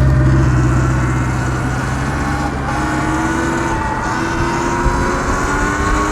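Surron Light Bee electric dirt bike's motor whining as it rides, the whine slowly rising in pitch as the bike speeds up, over wind noise. A low rumble of passing traffic is loud at the start and fades over the first two seconds.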